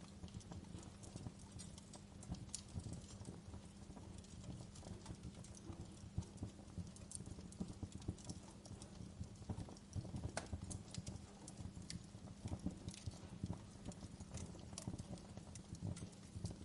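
Wood fire in a fireplace crackling and popping: many small irregular snaps over a low steady rumble of the burning logs, with a few louder pops in the second half.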